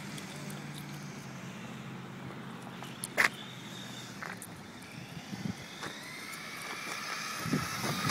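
Traxxas 1/10-scale rally RC car's electric motor whining, rising in pitch near the end as the car speeds up. A single sharp knock comes about three seconds in.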